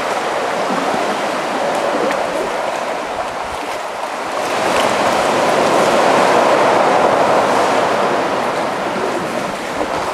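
Sea water washing and surging inside a sea cave, a steady rushing wash that swells louder about halfway through.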